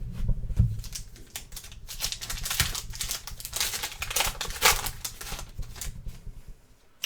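Trading cards and their packaging being handled: rapid, irregular clicking and crinkling.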